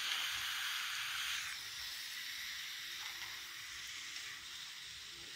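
Raw chicken pieces sizzling in a little hot oil and spice paste in a kadai. The sizzle is louder for about the first second and a half, then settles to a steadier, quieter sizzle.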